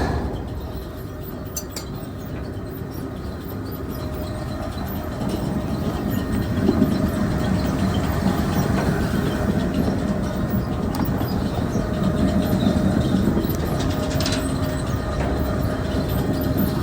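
Grain bucket elevator (grain leg) running: a steady mechanical rumble and clatter of the belt and buckets, growing louder about five seconds in.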